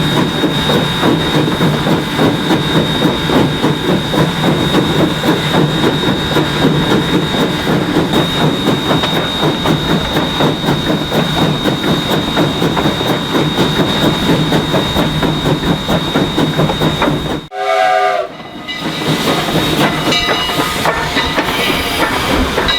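Narrow-gauge steam train running, with a steady rumble and clatter that pulses quickly, plus steam hiss. About 17 seconds in it breaks off; a short steam-whistle note and then more train clanking follow.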